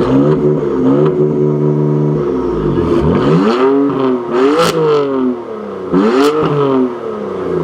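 BMW car engine revving hard: it holds high revs for about two and a half seconds, drops, then is blipped up and down twice, peaking around four and a half and six seconds in.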